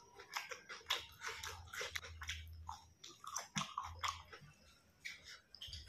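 A person chewing and biting food, a quick irregular run of short crisp crunches and mouth clicks.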